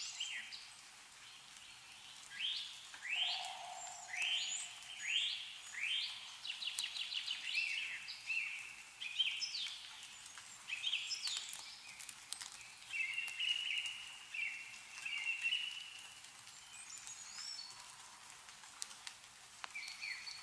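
Songbirds singing: repeated short, downward-sweeping whistled notes in quick phrases, then a lower warbling run of notes a little past halfway. Under the song there is a faint hiss with scattered light ticks of meltwater dripping from the trees.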